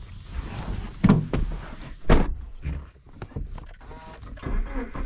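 A few sharp clunks and thumps, the loudest about a second and two seconds in, with a low rumble building near the end.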